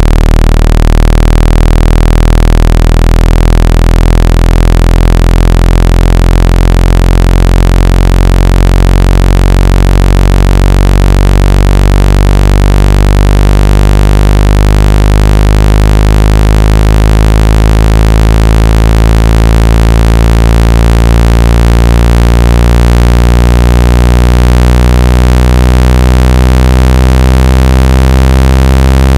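Loud, steady electronic buzz tone with many overtones, strongest very low down. It is a phone water-ejection tone, played to vibrate a wet speaker or earpiece so the trapped water is shaken out. Its upper overtones slowly creep up in pitch.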